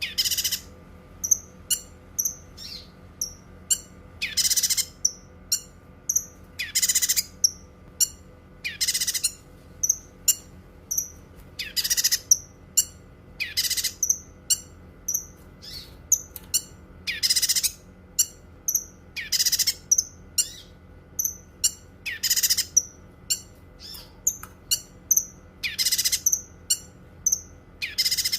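Cucak kinoi bird singing: a rapid run of short, high chirps broken about every two seconds by a louder harsh, rasping note.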